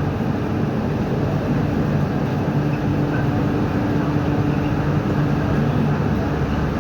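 Steady hum and rumble inside an MTR Q-train metro car, with a constant low drone. A slightly higher tone in the hum fades out about five and a half seconds in.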